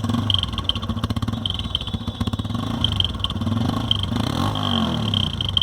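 TVS Apache RTR 160's single-cylinder engine idling, its exhaust carrying a slight putt-putt sputter. The sputter comes from an insect's mud nest built inside the silencer, which changes the exhaust sound.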